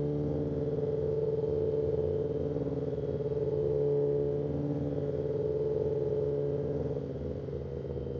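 Kawasaki ZX-10R's inline-four engine running at a steady cruising speed under the rider, holding an even pitch and easing off slightly about seven seconds in.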